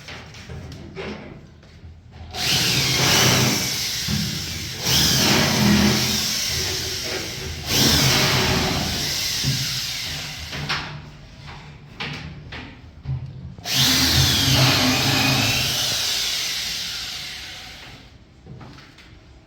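Handheld power tool run four times in a row, each run starting suddenly and fading away, with the pitch sweeping inside each run.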